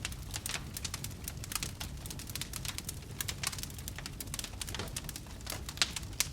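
Wood fire burning in a fireplace, crackling with irregular sharp pops and snaps over a low, steady rumble of the flames; the loudest snap comes near the end.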